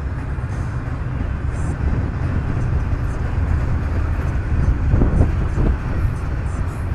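Union Pacific freight train running by: a steady low rumble of locomotives and rolling cars on the rails.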